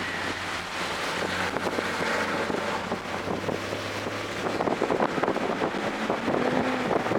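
GR Corolla's turbocharged three-cylinder engine running hard at track speed, with wind buffeting the microphone and a shift in engine pitch near the end.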